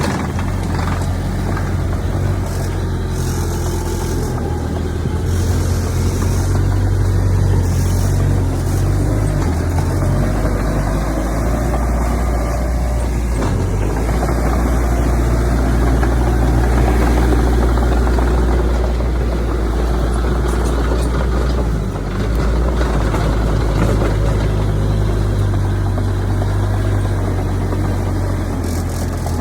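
Heavy diesel engine of earthmoving machinery running steadily with a deep low drone, swelling and easing only slightly.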